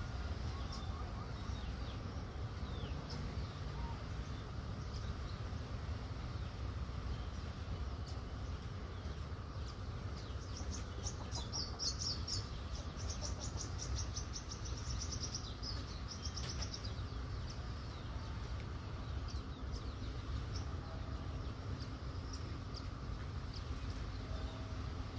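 Outdoor garden ambience with a steady low rumble. About ten seconds in, a rapid high-pitched chirping trill starts and runs for some six seconds, from a small animal, a bird or an insect.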